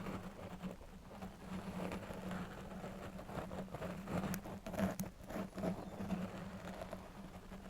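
A long metal nail scratched close to the microphone: dense, irregular small scratching ticks with a few sharper taps.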